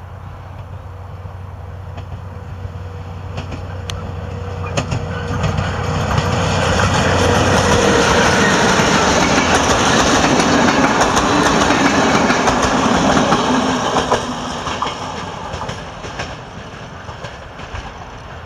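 A MÁV M41 diesel-hydraulic locomotive hauling passenger coaches approaches and passes. Its steady engine hum grows louder over the first several seconds. Wheel and rail noise, with clicks over the rail joints, is loudest as the coaches go by, then fades as the train moves away.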